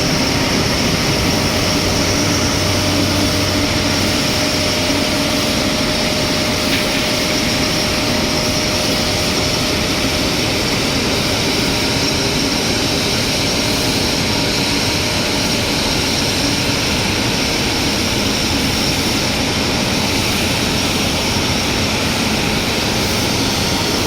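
Airbus A350-900's Rolls-Royce Trent XWB jet engines running steadily: a constant rush with a high whine on top.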